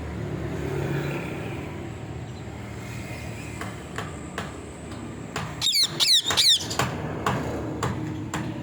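Parrot giving a quick run of three or four loud, shrill screeches with a rapidly wavering pitch a little past the middle, over a steady low rumble.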